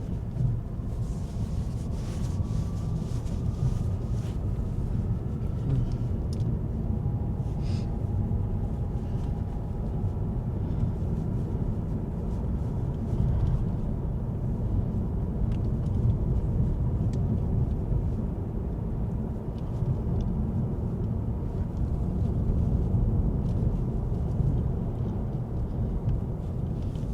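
Car driving along a road: a steady low rumble of engine and road noise with no pause, and a faint whine that rises slowly in pitch over the first few seconds.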